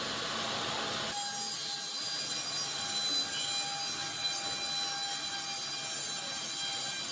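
Horizontal band sawmill blade cutting timber: a steady high-pitched whine of several fixed tones over a hiss. The sound changes abruptly about a second in.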